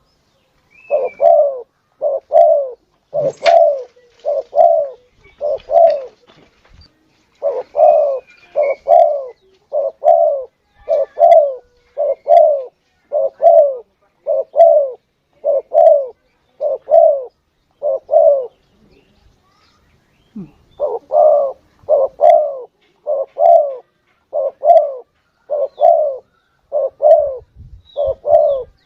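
Spotted dove (tekukur) cooing: a long run of low coo notes, about one a second, with a pause of about two seconds two-thirds of the way through. This is a lure call played to draw in doves.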